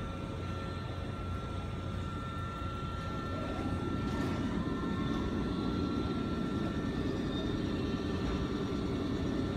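Haruka limited express electric train rolling slowly along the platform. Its running noise grows louder about three seconds in, with a steady high whine over it.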